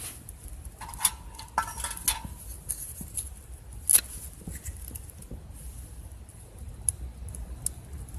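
Wood fire crackling: irregular sharp pops and snaps, the loudest about four seconds in.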